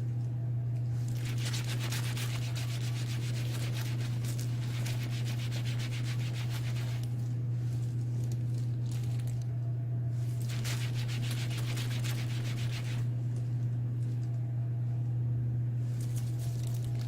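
Rapid back-and-forth rubbing on a leather bag during dyeing, in four long spells of strokes, over a steady low hum.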